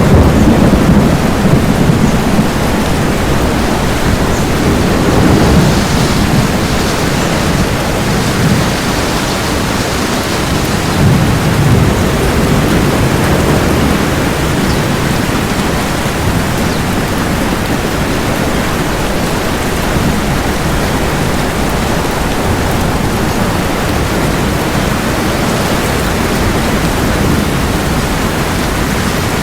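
Thunderstorm: steady heavy rain, with low rolls of thunder swelling several times in the first half before the rain carries on alone.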